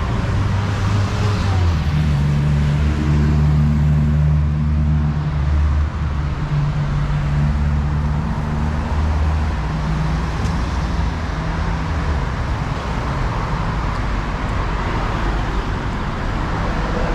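Street traffic on a busy road. A vehicle's engine runs close by as a low, steady hum for about the first ten seconds, then fades, leaving the general noise of passing traffic.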